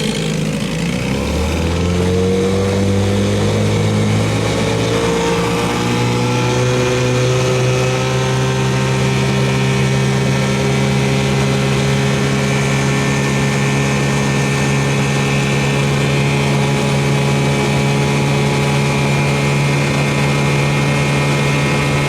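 A 1968 6 hp Evinrude two-stroke outboard motor opening up. Its pitch rises over the first several seconds as it gains speed, then it runs steadily at speed, pushing the small boat along.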